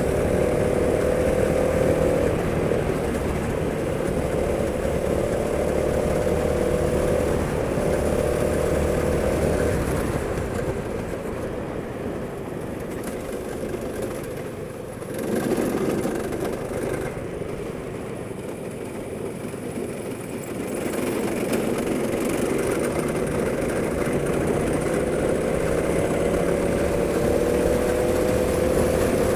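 Go-kart engine running hard, its pitch climbing as it accelerates, easing off and quieter through the middle, then climbing again near the end.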